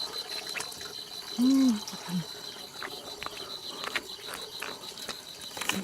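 Steady high-pitched insect trilling, with scattered light clicks. A short low vocal sound about a second and a half in is the loudest event, with a briefer one just after it.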